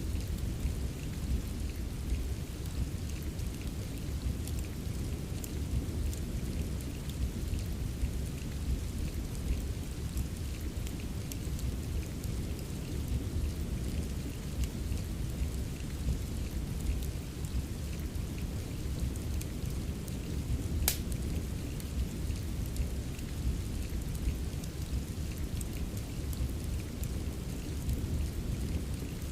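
Steady rain with a low, even rumble under it, mixed with the scattered light crackle of a wood fire. One sharper pop comes about two-thirds of the way through.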